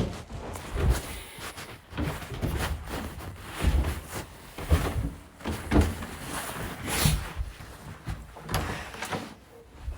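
Stihl BG 86 leaf blower's recoil starter being pulled over and over, about once a second, with the two-stroke engine not catching during a cold start.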